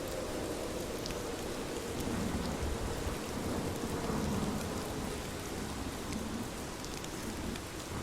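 Steady rain falling, with separate drops ticking through it. A low rumble swells about two seconds in and fades out again after the middle.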